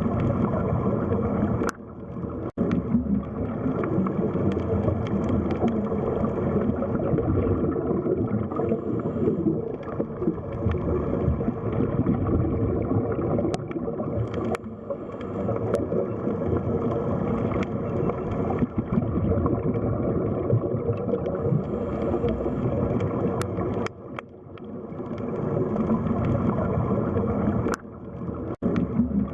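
Underwater sea ambience: a steady, muffled rush of water with gurgling. It drops out briefly a few times and fades back in.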